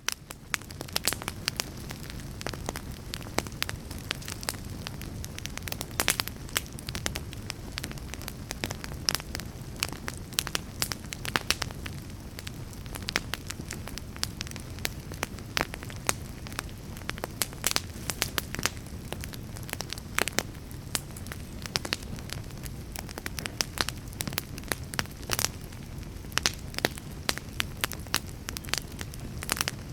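Fire crackling: a steady low rumble and hiss with frequent sharp, irregular pops and snaps. It swells in from near silence right at the start.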